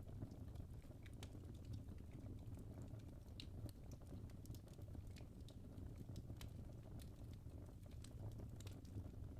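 Log fire crackling: irregular small, sharp pops and snaps over a low, steady rumble of burning.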